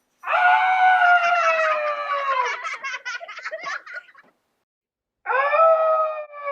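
A person's high-pitched wordless cry, held and slowly falling in pitch, breaking into choppy laugh-like sounds, then a second cry starting near the end.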